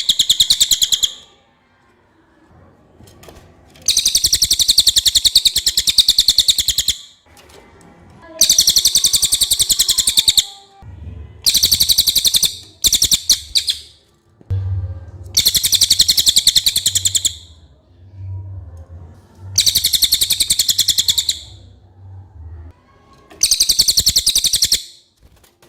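A cililin songbird singing in repeated bursts, each a rapid, clear, high-pitched trill of many fast notes lasting about two to three seconds, with short pauses between bursts. A low hum comes in partway through and stops near the end.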